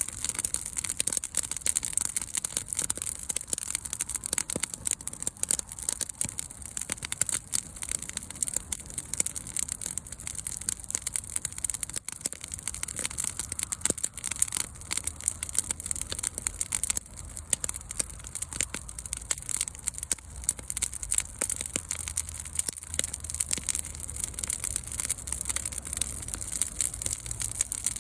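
Wood fire burning, crackling and popping continuously over a steady low rumble.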